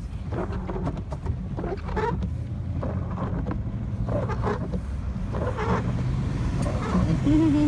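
Car cabin noise while driving: a steady low engine and road rumble inside the vehicle.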